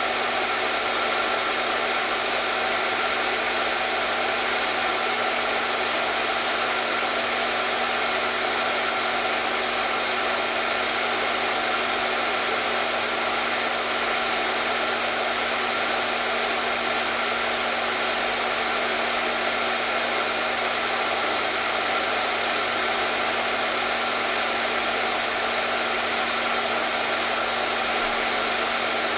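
Electric hair dryer running steadily, an even blowing hiss with a steady motor hum beneath it.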